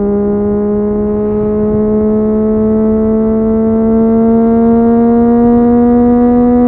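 Triumph Street Triple 765 RS's three-cylinder engine through an Akrapovic exhaust, under steady load with its note climbing slowly and evenly in pitch as the bike gradually gathers speed in one gear.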